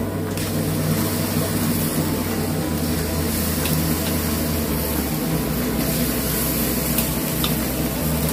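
Sliced onions frying in oil in a large pot, a steady sizzle as ginger-garlic paste is tipped in and worked with a perforated steel ladle, with a couple of light clicks.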